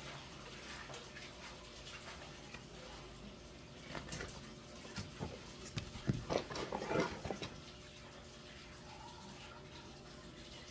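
Packaging and parts being handled during an unboxing: a few seconds of rustling, clicks and knocks in the middle, over a steady background hiss.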